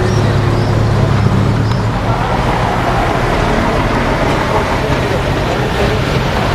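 Lamborghini Miura SV's 3.9-litre V12 idling steadily. Its low, even note is strongest for the first couple of seconds and then blends into a broader, noisier background.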